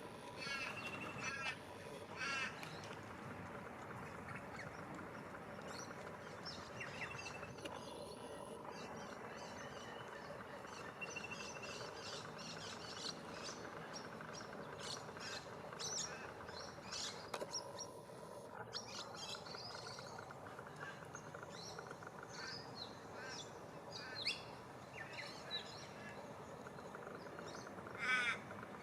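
Several wild birds calling and chirping over a steady outdoor background, with short high chirps throughout and a louder run of repeated calls near the start.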